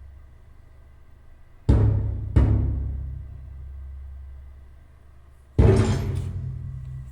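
Recorded music played loud through a hi-fi system of Naim and Audio Research amplifiers and Marten loudspeakers with no subwoofer: big drum strikes with long, deep booming decays. There are two hits close together about two seconds in and a third about a second and a half before the end.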